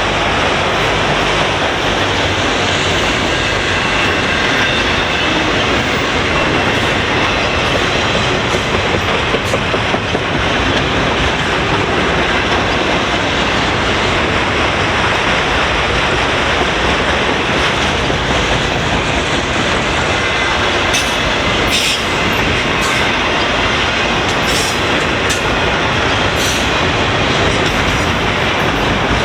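Freight cars of a long train rolling past on the track: a steady loud rumble and clatter of wheels on rail, with a few sharp high ticks and some wheel squeal in the later part.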